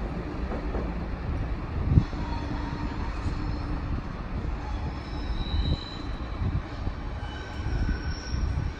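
SBB double-deck train rolling away over the station points, with a steady rumble, a thump about two seconds in, and thin wheel squeals that come and go in the second half.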